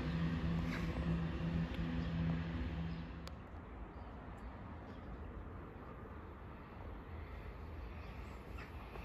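Approaching diesel train's engine, a steady low drone, cut off abruptly about three seconds in. Quieter, even outdoor background noise follows.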